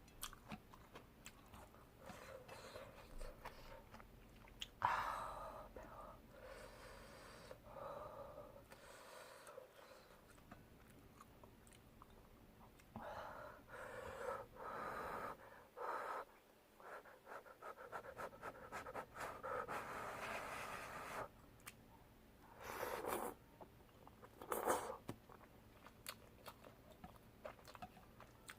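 Close-up eating sounds of spicy soup tteokbokki: chewing of chewy rice cakes with wet mouth clicks, and several louder, longer mouth sounds from a few to a second or two long.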